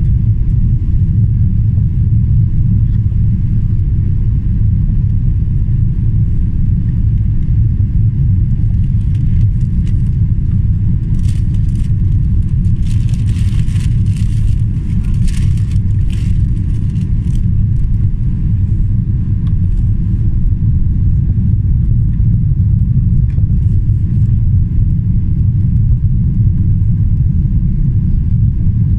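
Steady low rumble inside the cabin of a Boeing 777-300ER, from its two General Electric GE90 engines and the air rushing past the fuselage. A stretch of hiss with a few light rattles comes in the middle.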